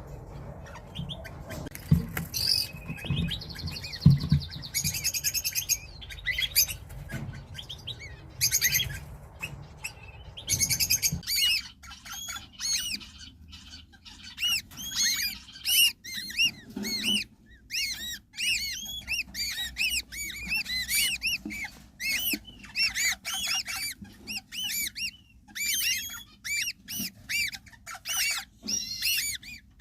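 Eastern rosella parrots calling: scattered squawks with a couple of knocks at first, then from about 11 seconds in a long run of rapid, repeated high chirps, several a second.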